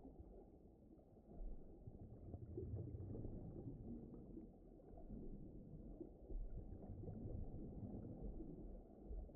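Muffled, low rumbling ocean ambience like the sound heard underwater, swelling and easing with nothing bright or high in it.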